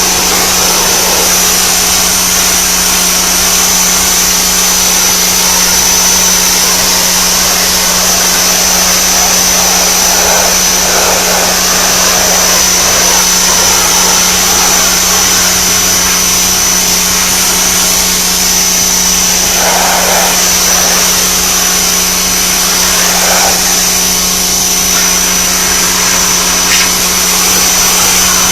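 Greenworks 1500 PSI electric pressure washer running steadily with a constant high whine, its 40-degree fan nozzle spraying water onto wooden planks.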